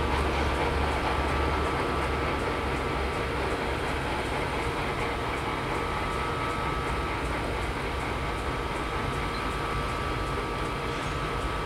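Steady low rumble and hum from a stopped freight train, with a faint steady high whine over it.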